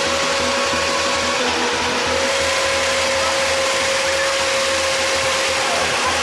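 A machine running steadily: a loud, even rush of noise with a high, steady whine through it that dips briefly in pitch about a second and a half in.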